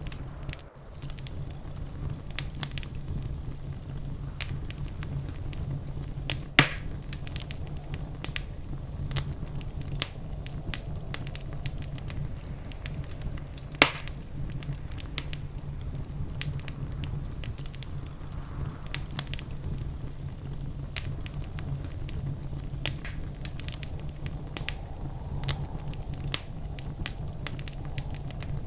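Wood fire in a fireplace crackling steadily over a low rumble, with frequent small snaps and two louder pops, one about six and a half seconds in and one about fourteen seconds in.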